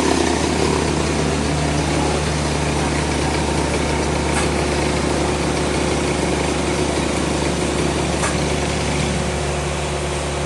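Sawmill engine running steadily at idle after the cut, with two faint ticks, about four seconds apart.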